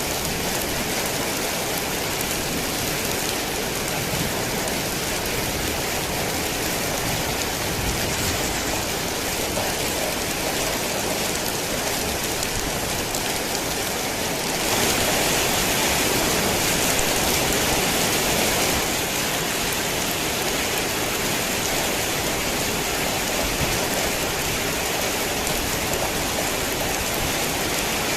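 Heavy rain falling steadily as a dense hiss, swelling louder for a few seconds about halfway through.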